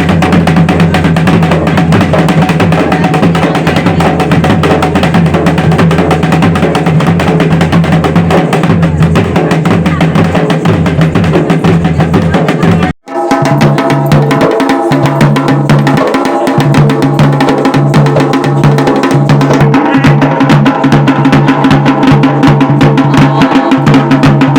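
Loud, fast drumming music with dense, rapid strokes. It breaks off for an instant about halfway through and resumes with more sustained tones under the beat.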